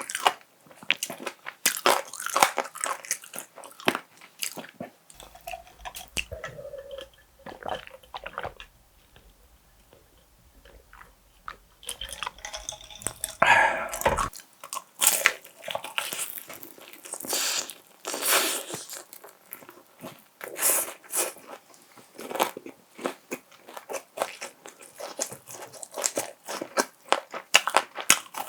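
Close-miked eating of crispy fried chicken: crunching bites and chewing. There is a quieter stretch of several seconds in the middle, then the crunching resumes.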